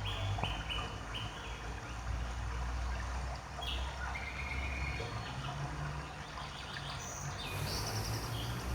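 Birds chirping in short repeated notes, then a few scattered single notes, over a steady low hum.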